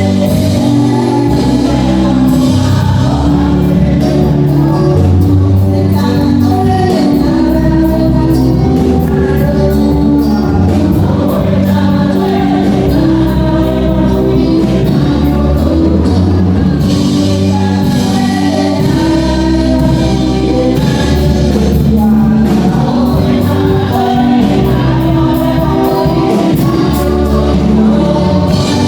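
Gospel music with a choir singing over a steady bass and beat.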